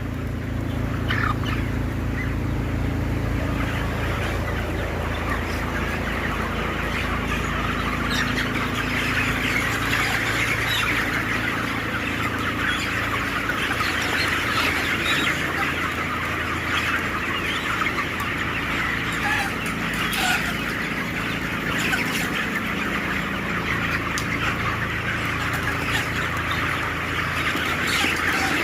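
A large flock of 26-day-old broiler chickens clucking and chirping together in a dense, continuous chatter. A low steady hum lies under it and fades out during the first half.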